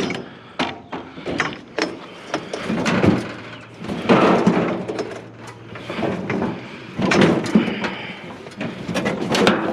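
Discarded metal grill being wrestled onto a loaded scrap trailer: irregular metal clanks, knocks and scraping, with louder clatters about four, seven and nine seconds in.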